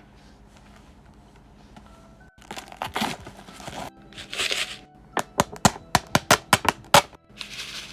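Soft background music, then snack packaging crinkling and tearing in loud bursts from about two and a half seconds in, with a quick run of about ten sharp clicks near the end.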